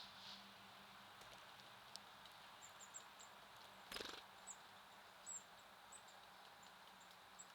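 Small songbirds giving short, very high, faint chirps in quick runs, over a steady low hiss, with a single louder knock about four seconds in.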